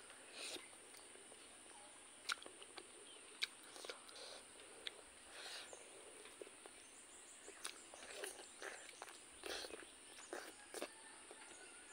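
Faint close-up eating sounds: a mouthful of pork curry and rice being chewed with wet lip smacks, and scattered sharp mouth clicks at irregular moments.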